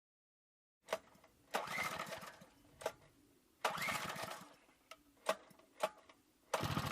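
A small water-pump engine on a homemade minibike being pull-started: two pulls of the recoil starter, each a short whirring rush with a rising whine, with sharp clicks before and between them.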